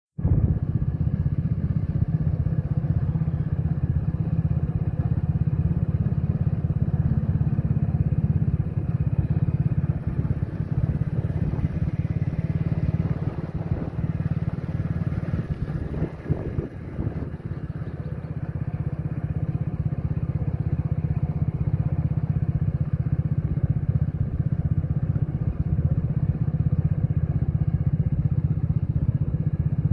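Steady low rumble of a moving vehicle, dipping a little about halfway through.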